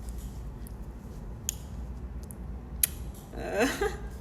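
African grey parrot making two short kissing smack sounds, about a second apart, followed near the end by a brief warbling vocal sound.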